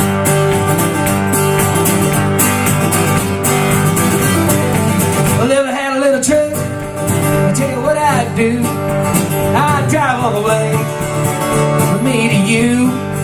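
Country band playing a song's instrumental intro live, acoustic guitar strumming steadily, with a wavering lead melody line coming in about halfway through.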